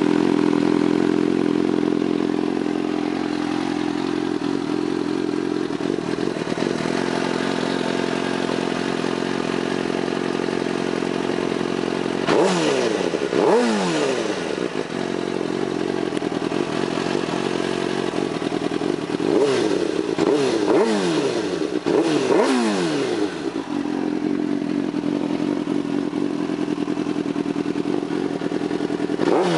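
2004 Suzuki GSX-R600 K4 inline-four sport bike engine breathing through an aftermarket A16 MotoGP-style exhaust. It idles steadily for about twelve seconds, then is revved in quick throttle blips that rise and drop straight back. It settles to idle, is blipped several more times in the middle stretch, idles again, and is blipped once more at the very end.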